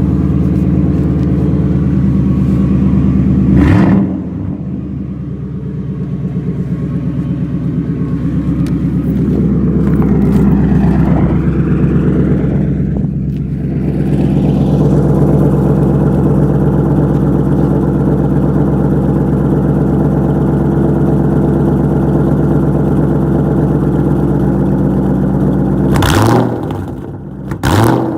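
Straight-piped 2003 Ford Mustang GT V8 (no mufflers, resonators or catalytic converters), heard from inside the cabin. It runs with a loud, deep rumble whose revs climb and fall back midway. A sharp loud thump comes about four seconds in, and two more come near the end.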